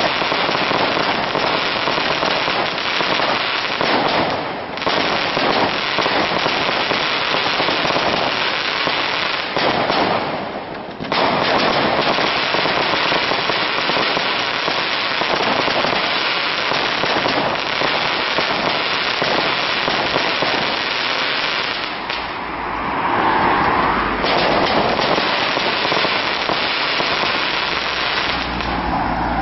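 Aerial fireworks display: a dense, rapid barrage of pops and bangs from bursting shells, with brief lulls about four and ten seconds in and again near the twenty-third second.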